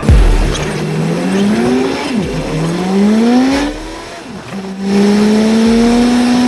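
Car engine accelerating through the gears: its pitch climbs, falls at a shift about two seconds in, climbs again, falls at a second shift, then holds nearly steady until it cuts off suddenly.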